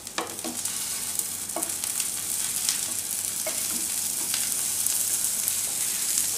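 Chicken patties sizzling in shallow oil on a hot non-stick tava, with a few short scrapes and taps of a spatula as the patties are turned over one by one. The sizzle grows a little louder as the browned sides come up and the raw sides go down onto the oil.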